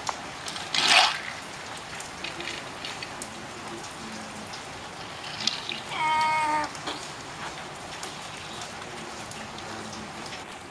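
Light rain falling steadily on wet concrete and a shallow puddle, with water splashing as toy vehicles are pushed through the puddle; a loud splash about a second in. About six seconds in, a short high-pitched call at a steady pitch, lasting under a second.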